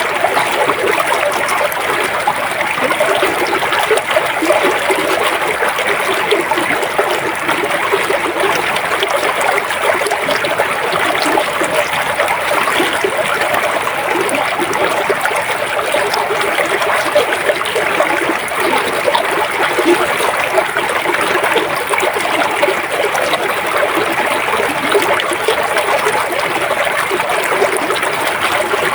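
River water flowing steadily, an even rushing with no pauses or single splashes standing out.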